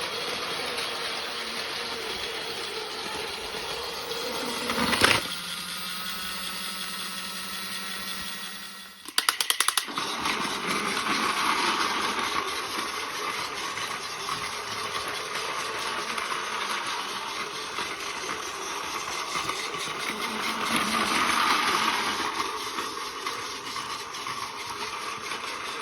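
Battery-powered Plarail toy trains running on plastic track: a steady motor buzz and wheel rattle that swells and fades as the trains pass. A sharp click comes about five seconds in, and a quick run of about ten clicks near the ten-second mark.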